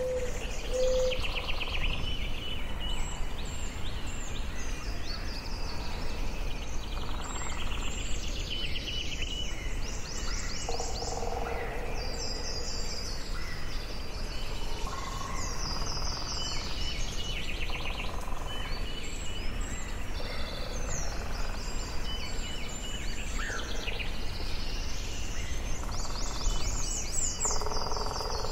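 Forest ambience: several birds singing and calling throughout, short trilled phrases of quickly repeated notes, over a steady low background rumble.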